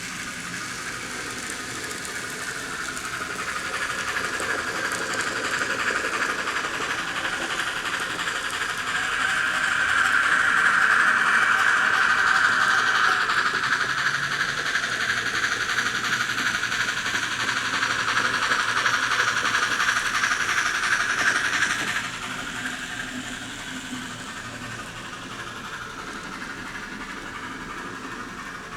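N scale model train running along the track, growing louder as it comes near, loudest through the middle, then dropping off suddenly about three quarters of the way through.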